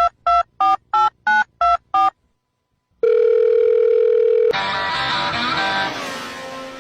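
Telephone keypad dialing tones: seven short beeps in quick succession, then a pause and a steady tone, followed by music that slowly fades out.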